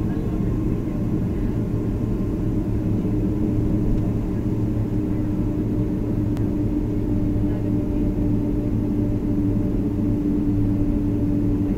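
Jet airliner's engines running steadily: a low rumble with a steady hum on top.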